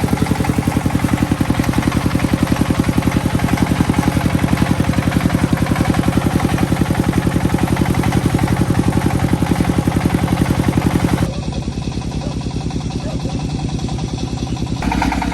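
Single-cylinder diesel engine of a công nông farm vehicle running with a steady, rapid chugging. About eleven seconds in it turns duller and a little quieter for a few seconds, then comes back.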